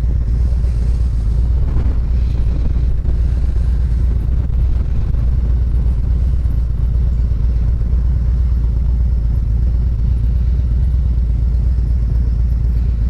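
Motorcycle on the move, with a steady low rumble of engine, road and wind noise on the rider's microphone.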